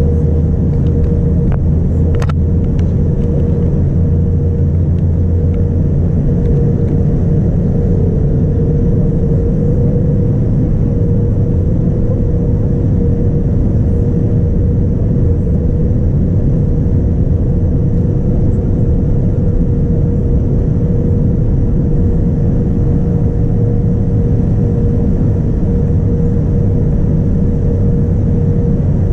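Steady loud rumble of engine and airflow noise inside the cabin of a Boeing 787-9 airliner, with a constant hum running through it. A few light clicks come about two seconds in.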